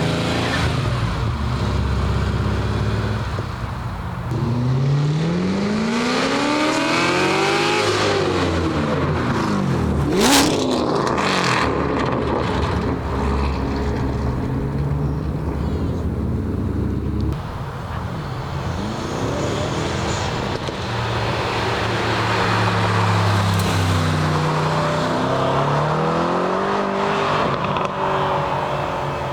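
Cars' engines accelerating and revving as they pull out and drive past, their pitch climbing and dropping in several runs. A single sharp crack comes about ten seconds in.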